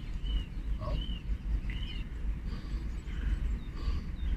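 A bird calling with a short, high, arched chirp repeated about once every three-quarters of a second, over a steady low rumble.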